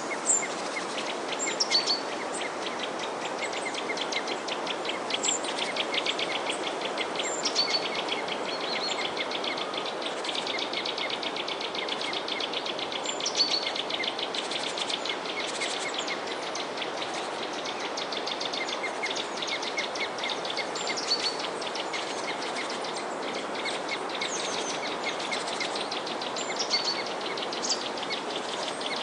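Small songbirds chirping and twittering: short, falling high chirps repeated every second or two, with a rapid ticking trill in the middle stretch, over a steady background hiss.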